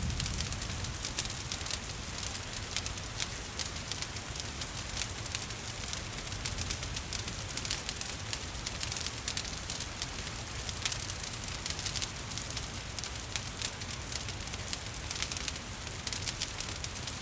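Wood fire crackling steadily with many small irregular pops, over an even hiss of gentle rain.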